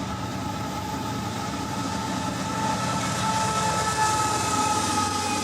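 Canadian Pacific freight train rolling past: a steady low rumble with two sustained high, squealing tones held over it, drifting slightly in pitch.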